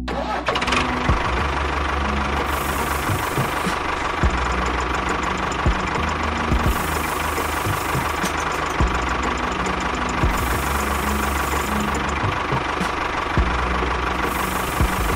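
Steady engine-like running sound with a knocking clatter as a homemade mini tractor drives and pushes sand with its front blade.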